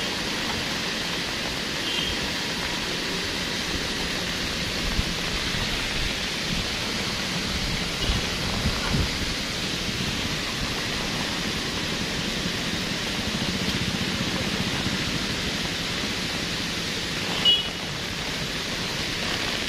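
Steady hiss of rain and runoff water pouring across the road, under the low running of vehicle engines as they creep past the rockfall. A few short high chirps, the loudest a sharp one shortly before the end.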